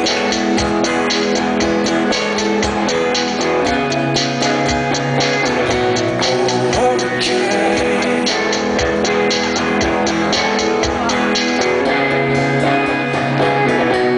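Rock band playing live: electric guitars holding chords over a drum kit keeping a steady beat.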